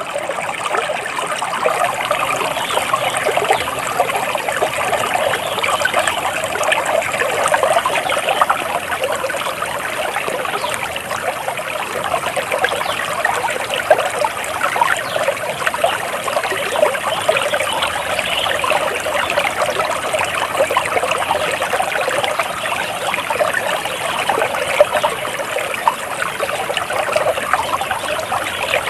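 Flowing water trickling and babbling steadily, a dense patter of small splashes with no pause.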